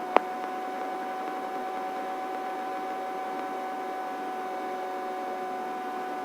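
Steady helicopter cabin noise heard through the intercom: an even hiss with a constant whine and several other steady tones, and little low rumble. One short click sounds just after the start.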